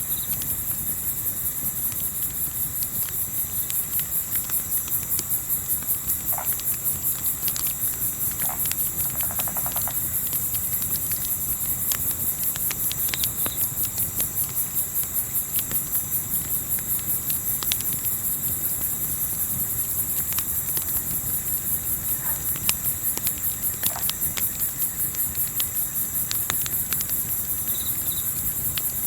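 Crickets chirping in a steady, fast-pulsing chorus, with scattered sharp crackles of a wood campfire and a low rumble underneath.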